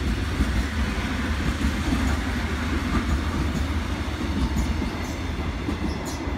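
Seoul Metro Line 1 electric multiple-unit train rolling past on the rails: a steady low rumble of wheels and running gear, easing slightly near the end. A sharp click is heard near the end.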